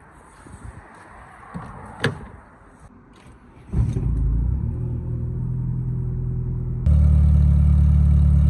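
A few faint knocks, then a car engine starts up about four seconds in and runs at a steady, deep idle, turning abruptly louder near the end. The exhaust pipe is smashed and hanging on tape, so the engine runs loud.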